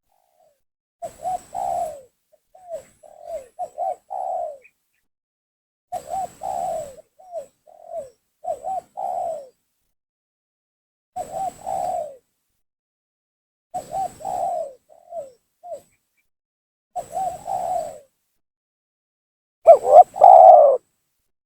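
Spotted dove (tekukur) cooing in short phrases a few seconds apart, about seven in all, each a quick run of coos, with the loudest phrase near the end. An energetic call played as a lure to draw in wild doves.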